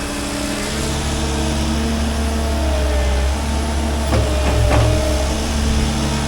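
Heavy equipment engine running steadily, its pitch shifting slightly a couple of times, with a few sharp knocks about four to five seconds in.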